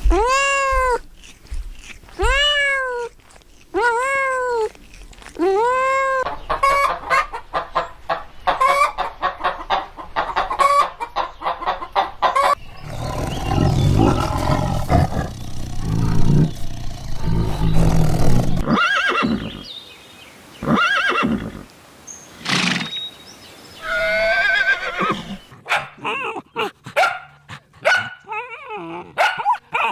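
A succession of different farm-animal calls. It opens with four evenly spaced pitched calls, each rising and falling. Fast, short repeated calls follow, then a rougher, lower stretch and more scattered calls.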